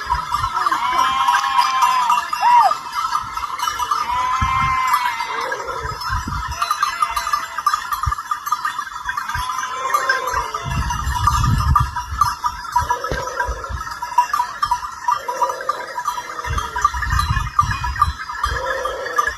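A flock of sheep and goats bleating, with many small neck bells jingling continuously. There are several bleats in the first few seconds, then one every two or three seconds, over occasional low rumbles.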